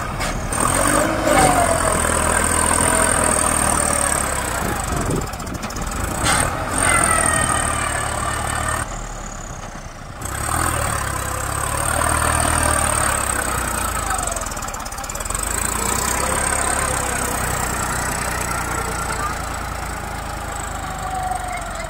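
Massey Ferguson 246 4WD tractor's diesel engine running steadily, with faint voices in the background. The sound drops away briefly about nine seconds in, then the engine returns.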